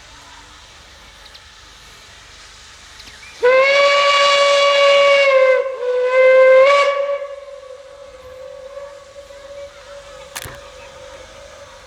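Steam locomotive 23 042's whistle sounding two blasts, a long one followed almost at once by a shorter one, on one steady high pitch. A sharp click comes near the end.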